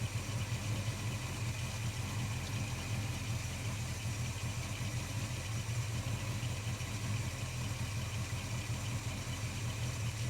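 Holden HK engine idling steadily while it warms up. It is not yet running quite right, which the owner puts down to a faulty ignition coil.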